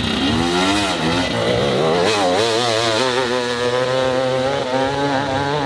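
Dirt bike engine revving hard, its pitch rising and falling again and again as the throttle is worked, then holding high with a fast waver.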